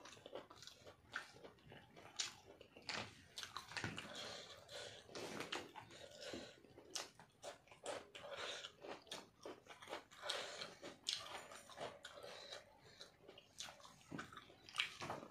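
Close-up mouth sounds of a man eating rice and chicken curry by hand: wet chewing and lip-smacking, with many short, irregular clicks. Rice is squished on the plate between mouthfuls.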